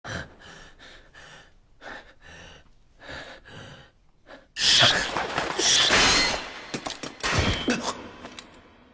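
Heavy, rhythmic panting breaths, about two a second. Then, a little past halfway, a run of loud crashes and sharp impacts that fades near the end.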